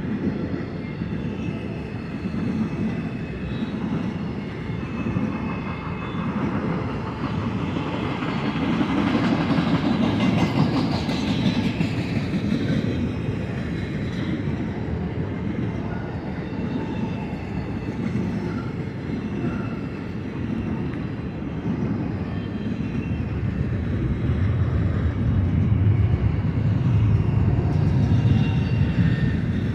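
Double-stack container cars of a long freight train rolling past, a steady rumble with wheels clacking and rattling over the rails. It swells about ten seconds in and again, deeper, near the end.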